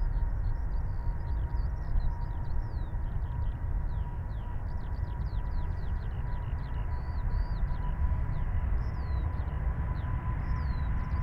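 Airbus A380 jet engines spooling up for takeoff at a distance: a low rumble under a steady whine that creeps slightly higher in pitch. Small birds chirp and twitter throughout.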